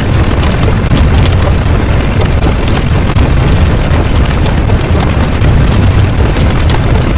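Loud, steady low rumble with dense crackling, like a sustained blast or eruption sound effect.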